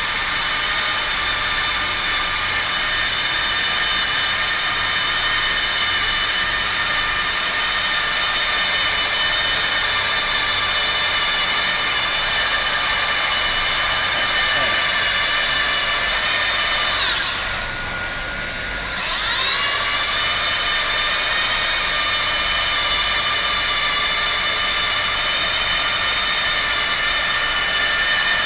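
Plastic extrusion welder running with a steady high motor whine and blower hiss. About 17 seconds in, the pitch drops and the sound eases for a couple of seconds, then climbs back up to full speed.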